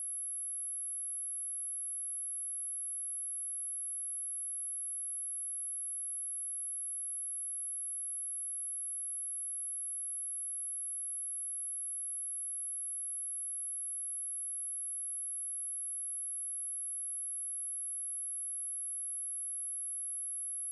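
A steady, high-pitched pure sine tone at 10904 Hz, a single unchanging pitch held without a break, played as a speaker test tone.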